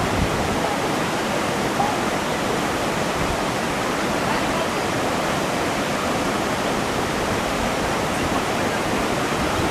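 Steady rush of fast-flowing creek water and waterfall, an even, unbroken noise close to the microphone.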